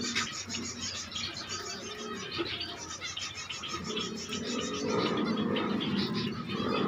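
Zebra finches chirping, with many short rapid calls. A lower noise joins in during the second half.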